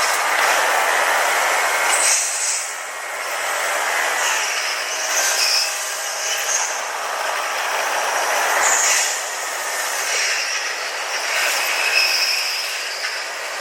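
Running noise of a Tokyu 5050 series 4000-type electric train, heard from the cab and played back at double speed: a steady rumble and hiss with short, high squeals now and then.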